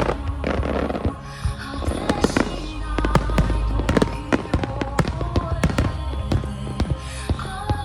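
Aerial fireworks bursting in quick succession, many sharp bangs and crackles with a low rumble, over a song playing.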